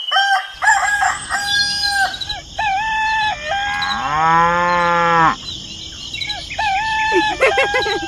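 Farmyard animal calls: a rooster crowing and chickens clucking in short, repeated calls, with one longer, lower call that rises and falls in pitch about four seconds in, like a cow mooing.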